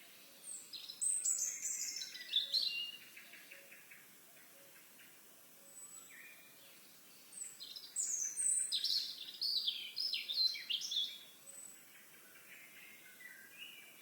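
A songbird singing two bouts of rapid, jumbled high notes, the first about half a second in and the second near the middle, with fainter chirps near the end.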